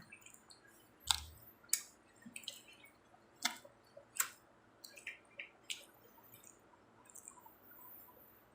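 Close-up mouth sounds of someone eating pizza: faint, wet chewing with irregular lip smacks and clicks spaced a second or so apart.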